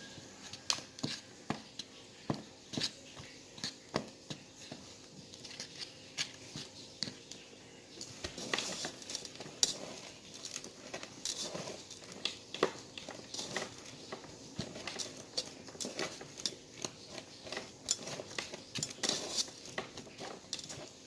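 Chicken wings being pressed and rolled by hand in crushed Dorito crumbs on a plate: repeated crinkling and crunching with small sharp taps on the plate, busier from about eight seconds in.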